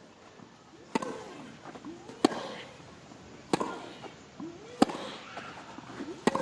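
Tennis rally: a ball struck back and forth by rackets five times, about once every 1.3 seconds, with a player's short grunt after the strikes.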